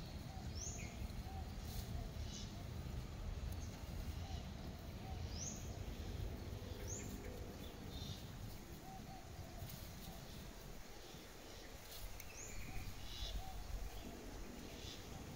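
Birds calling with a handful of short, high chirps, each sliding down in pitch, over a steady low background noise.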